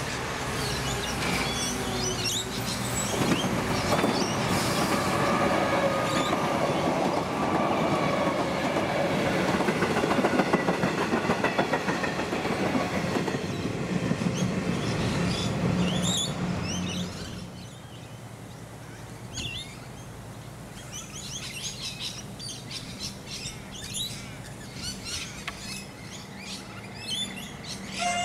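Electric suburban train passing close by, its wheels running loudly over the rails with a faint whine over the top. The sound falls away about 17 seconds in, leaving birds chirping.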